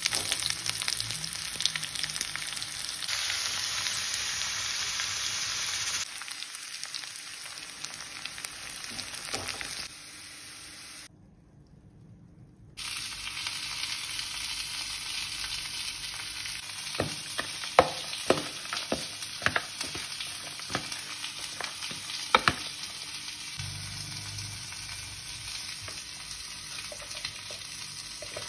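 Hot oil sizzling as sliced onions and a tempering of curry leaves, seeds and peanuts fry in a pan, stirred with a spatula. In the second half the spatula clicks and scrapes sharply several times.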